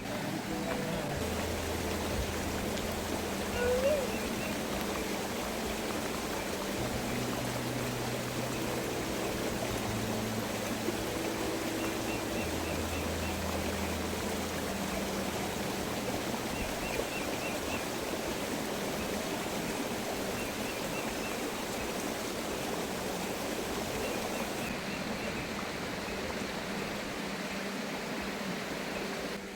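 Water running in a natural spring or stream, a steady rushing.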